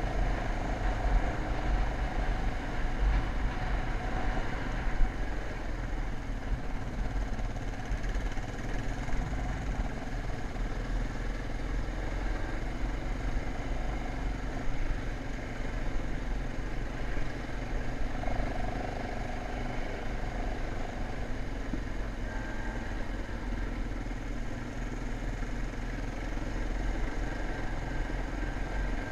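Motocross dirt bike engine running at a fairly steady pace, with a heavy low rumble throughout.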